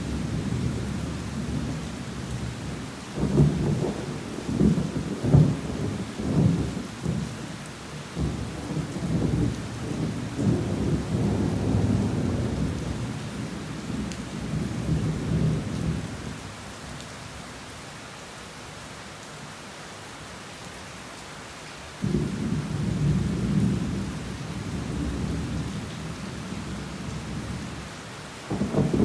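Thunder rumbling and crackling over steady heavy rain. The rumble dies down for several seconds past the middle, leaving only the rain, then a new roll of thunder starts suddenly about three-quarters of the way through.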